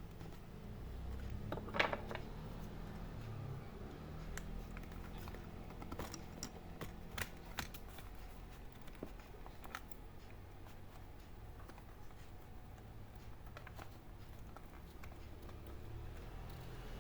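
Scattered small clicks and taps of hands working on an opened laptop's parts, the loudest a short cluster about two seconds in, over a low steady hum.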